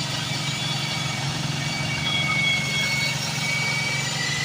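Asphalt core cutting machine running steadily, a constant low motor hum with a thin high whine over it, as it cuts a core from the blacktop.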